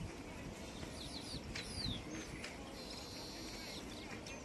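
Small birds chirping: a few short sliding chirps in the first half and a steady high trill about three seconds in, over a steady low rumble.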